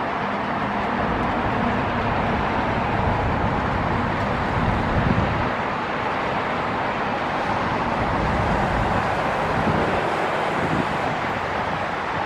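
Boeing 747-8 freighter on landing approach, its four GEnx turbofans making a steady rushing rumble that swells slightly about a third of the way in.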